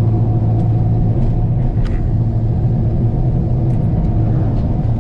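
Cammed LS V8 with headers and Flowmaster dual exhaust droning steadily at a cruise, heard from inside the truck's cab, with a faint click or two over it.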